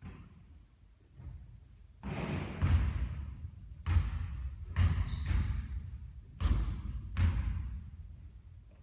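Basketball bouncing on a court floor: a string of sharp thuds starting about two seconds in, with a few short high squeaks among them.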